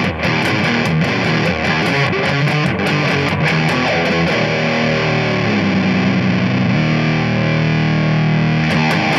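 Ibanez S470 electric guitar played through a Ruby fuzz pedal, heavily distorted: strummed chords for the first few seconds, then notes sliding down in pitch into a long held chord, with strumming starting again near the end.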